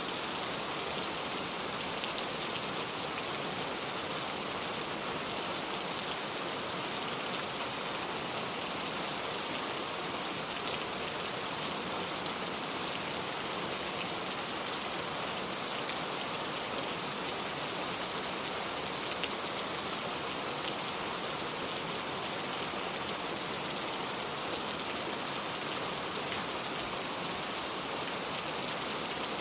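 Heavy rain pouring steadily, a dense even hiss with fine scattered drop patters.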